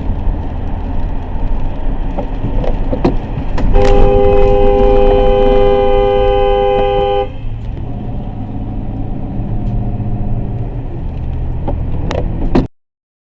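Steady road and engine rumble from a moving vehicle. A two-tone car horn is held for about three and a half seconds, starting about four seconds in. Near the end all sound cuts off abruptly.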